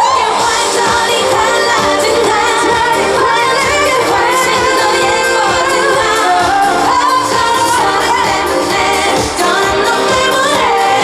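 A pop song performed live, with a woman's voice singing the melody over loud pop accompaniment.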